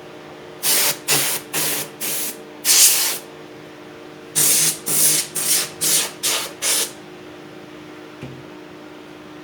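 Repaired Sunbeam electric heater's fan running with a steady hum. Over it come ten short, loud hissing bursts in two runs of five, about a second in and again about four and a half seconds in.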